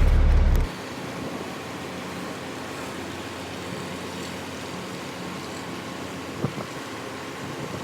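A loud low rumble cuts off suddenly under a second in, leaving a steady mechanical hum with a single sharp click about six and a half seconds in.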